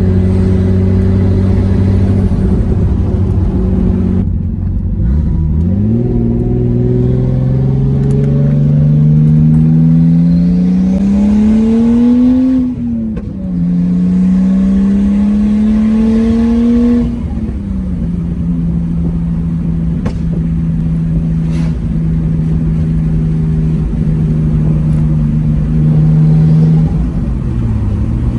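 Nissan Skyline R32's turbocharged straight-six running with the cat-back exhaust removed, so it is straight-piped behind the front catalytic converter. It holds steady revs, then pulls hard through two gears with a shift between, settles into steady cruising revs, and drops revs near the end.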